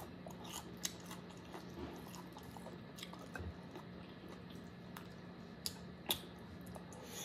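Close-up chewing and biting of chicken wings: wet, irregular mouth clicks and smacks, the sharpest about a second in and twice near the end, over a faint steady hum.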